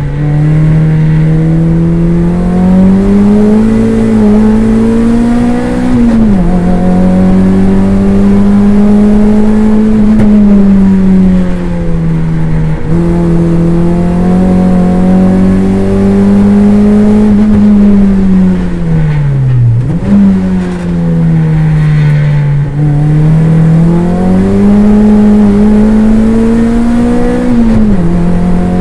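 Toyota MR2 race car's engine heard from inside the cabin at racing speed. Its note climbs steadily under acceleration and drops suddenly at gear changes about six, thirteen and twenty-eight seconds in. It sinks low around twenty seconds in before picking up again.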